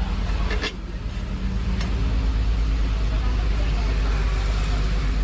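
An engine running with a steady deep rumble, and a short clatter about half a second in.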